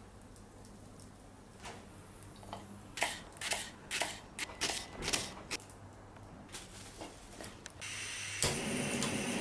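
Irregular, quick clicking and tapping of kitchen utensils while preparing food, then near the end a louder steady hiss with a faint ringing.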